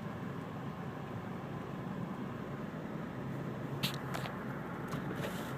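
Honda car driving slowly through heavy snow on a snow-covered road, heard inside the cabin: a steady low engine and road rumble, with a few short clicks a little under four seconds in and around five seconds.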